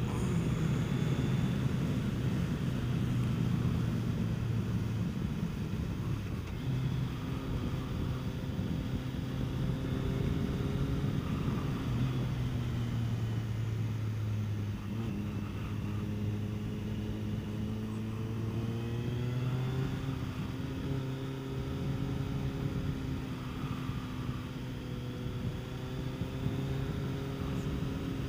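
Kawasaki Concours 14's inline-four engine running at road speed, its pitch rising and falling as the throttle is rolled on and off through the bends. There is a clear rise in pitch about two-thirds of the way through.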